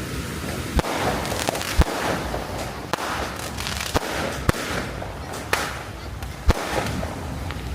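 Fireworks going off: about eight sharp bangs at uneven intervals, with crackling between them.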